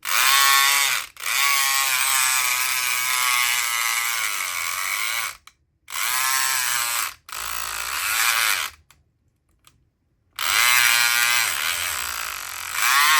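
SouthOrd E500XT electric lock pick gun buzzing in several bursts, its motor pitch wavering up and down as the vibrating pick works the pins, with a pause of about a second and a half near nine seconds in. The lock is stuck in a false set and does not open.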